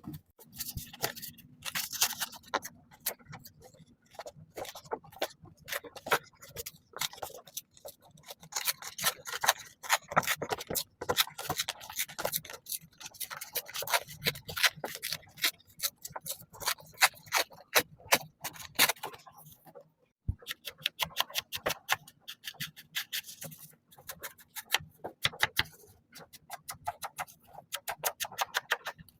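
Paper and craft tools being handled on a desk: irregular scraping, rubbing and clicking, with a quicker, more even run of sharp clicks in the last third.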